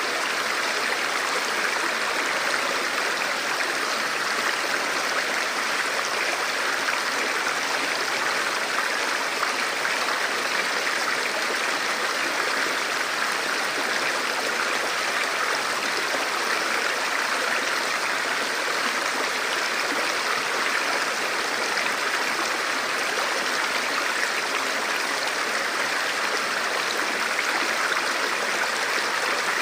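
Forest river flowing steadily over rocks, a constant rushing of water with no breaks.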